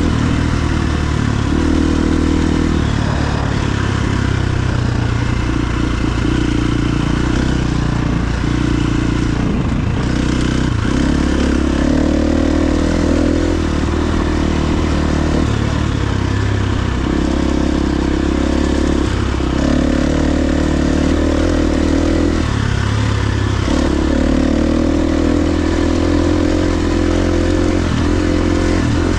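KTM 350 XC-F dirt bike's single-cylinder four-stroke engine running on the move, its note stepping up and down every few seconds as the throttle is worked.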